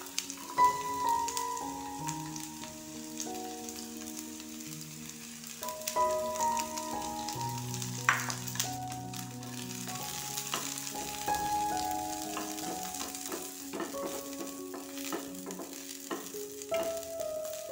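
Sliced small onions, garlic cloves and a dried red chilli sizzling in hot oil in a non-stick frying pan, with a spatula clicking and scraping on the pan as they are stirred, more often in the second half. Soft instrumental background music plays underneath.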